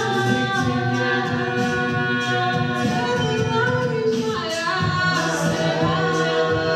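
A cappella group singing sustained multi-part harmony, with a steady beat that sounds like vocal percussion.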